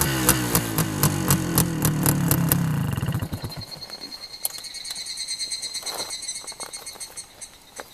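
Suzuki TS two-stroke motorcycle engine shut off, its firing slowing and falling in pitch until it stops about three seconds in. Insects then chirr with a steady high tone, with a few scattered clicks.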